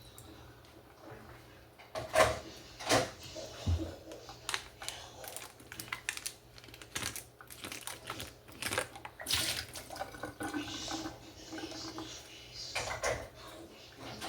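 Dishes and utensils clinking and knocking as a dishwasher is loaded by hand, an irregular run of sharp clicks and clatters.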